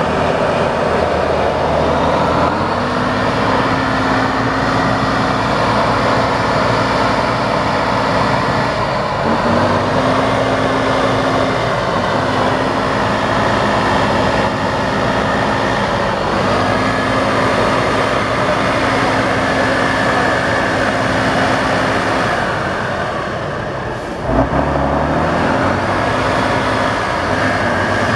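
Tatra 813 8x8 truck's air-cooled V12 diesel working under load, its engine note stepping up and down every few seconds as the revs change. Near the end the engine eases off, there is a single knock, and the revs climb again.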